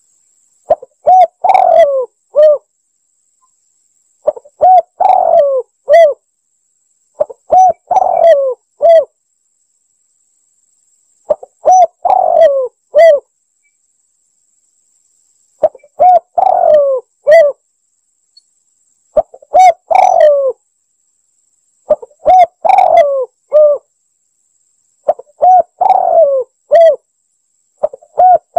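Spotted dove (tekukur) cooing, played back as a hunting lure call. A phrase of several coos repeats about every three to four seconds, about nine times, with dead silence between the phrases.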